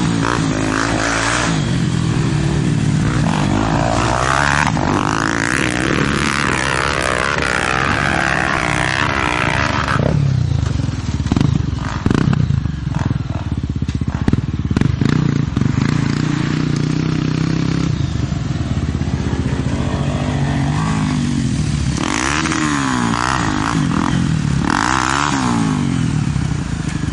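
Honda XR 250 Tornado single-cylinder four-stroke engine running hard at speed, its pitch climbing and dropping repeatedly as it revs through the gears. A rougher, clattering stretch comes in the middle, then it runs on steadily again.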